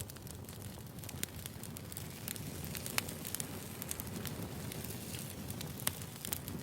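Wood fire crackling: a steady low rumble of burning logs with scattered sharp pops and snaps, two of them louder, about three and six seconds in.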